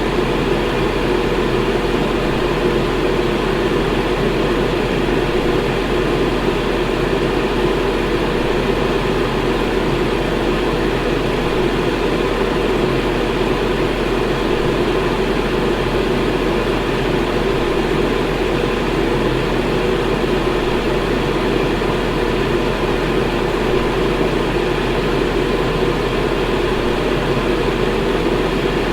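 Electric fan running steadily: an even rushing noise, fullest in the lower middle range, over a steady low hum.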